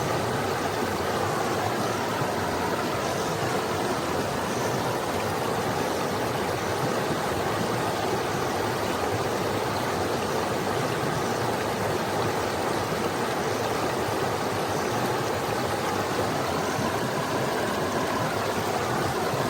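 Forest stream running over rocks: a steady rushing, babbling wash of water.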